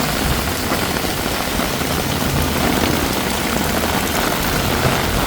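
Heavy rain pouring down steadily on the street, with the low rumble of traffic engines underneath.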